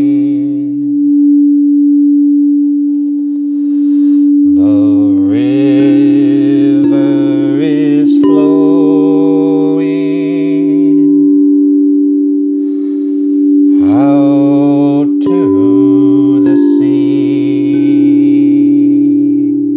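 A singing bowl ringing with one steady, sustained tone, joined twice by wordless singing that slides up into long, wavering held notes.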